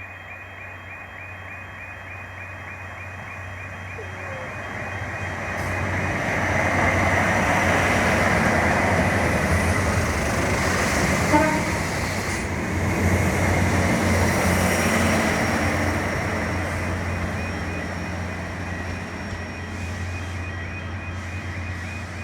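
A train passing: its rumble and wheel noise swell over several seconds to a peak in the middle, then slowly fade away. There is a single sharp click near the middle.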